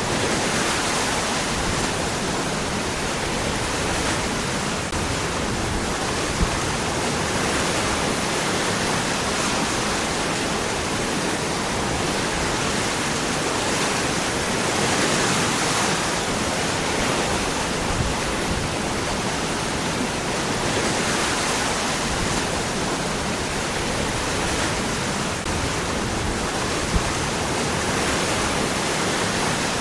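Waterfall: water falling among rocks in a steady, dense rush with no pauses.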